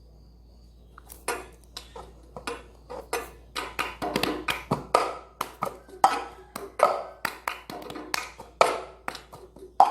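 A cup being knocked and tapped on a table, mixed with hand claps, in the quick rhythmic pattern of a cup game. The taps start about a second in and grow louder.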